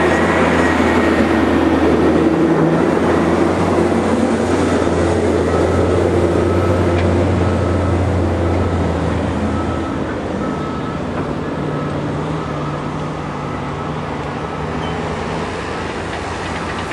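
Steady rumble of a large engine running, with a low hum under a noisy roar. The low hum drops away about ten seconds in and the sound eases off.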